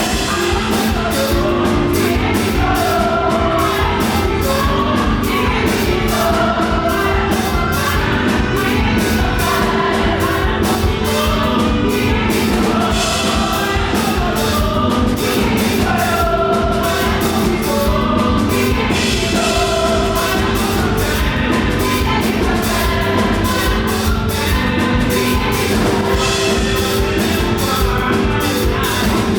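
Live up-tempo gospel worship music: a band with a fast, driving drum beat under a group of voices singing.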